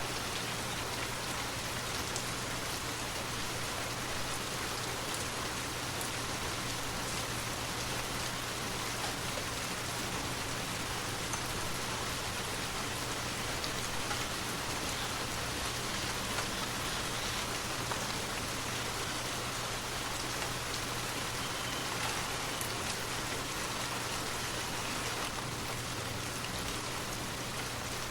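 Steady rain falling, an even unbroken hiss with a constant low hum underneath.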